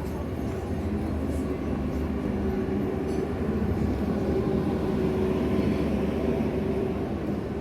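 A large vehicle's engine running with a low rumble and steady hum. It grows a little louder past the middle, then eases off.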